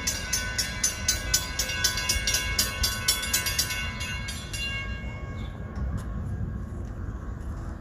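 Railroad grade-crossing warning bell ringing rapidly, about four strokes a second, stopping about four seconds in. The low rumble of a SEPTA commuter train at the crossing runs underneath.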